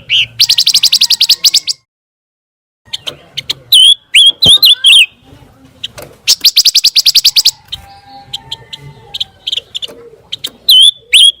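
Pancawarna bird song: sharp high chirps and slurred whistled notes, with two fast trills of about a dozen notes a second. The song breaks off briefly about two seconds in.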